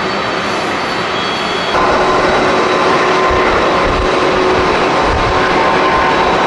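Jet airliner engines running: a steady rushing noise with a faint whine, which jumps louder about two seconds in as a new, steadier whine sets in.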